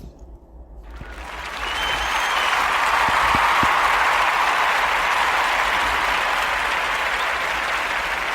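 Crowd applause, fading in about a second in and then continuing steadily.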